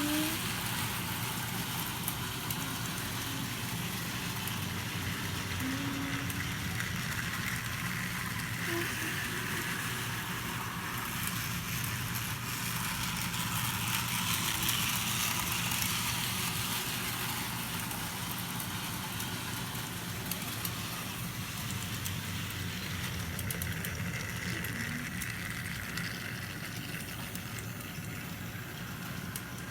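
HO scale model train running around the track: a steady electric motor whir with wheel and rail noise, and a few faint short squeaks.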